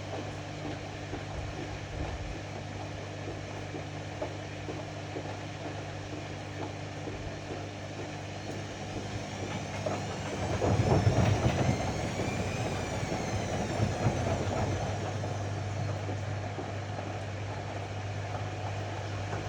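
Ariston AML125 washer-dryer running with a steady motor hum. About ten seconds in, the drum turns harder with a louder rumble and a motor whine that rises and then falls away over a few seconds.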